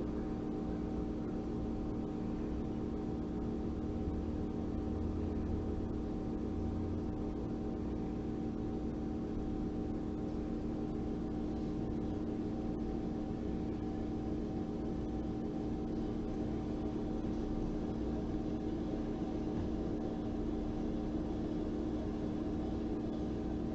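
A steady, unbroken drone of several held low tones, even in level throughout.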